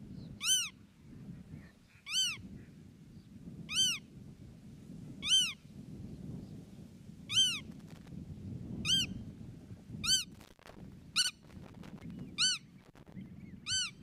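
A bird's short mewing call, rising then falling, repeated about ten times at roughly one-and-a-half-second intervals over a steady low rumble.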